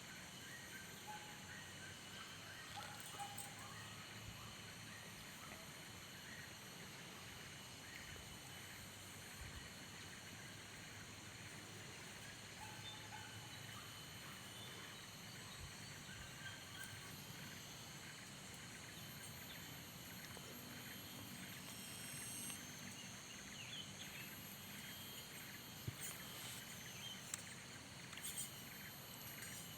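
Faint outdoor nature ambience: a steady chorus of insects, with a few short soft ticks near the end.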